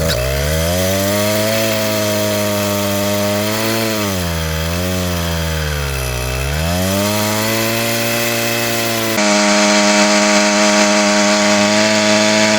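Motorized bicycle's small engine revving hard for a burnout. The pitch climbs quickly at the start, sags and recovers twice around the middle, then holds high and steady at full throttle, a little louder, for the last few seconds.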